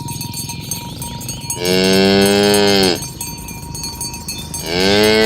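Cattle mooing: two long moos, the first about a second and a half in, the second near the end.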